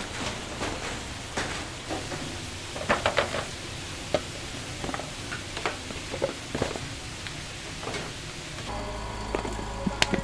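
Fried-chicken stall kitchen work: a steady sizzle with scattered clinks and taps of utensils and containers. A steady mechanical hum joins near the end.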